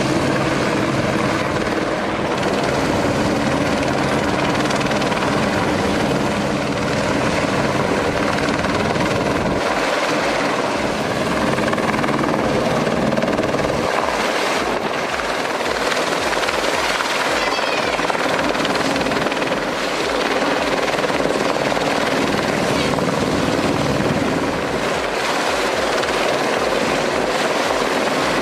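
Helicopter running close by, a loud steady din of rotor and engine, as when it carries a suspended aerial tree-trimming saw.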